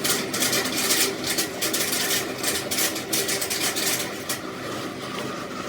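Rapid, irregular scraping strokes of a tool on metal, a rasping noise that stops about four seconds in.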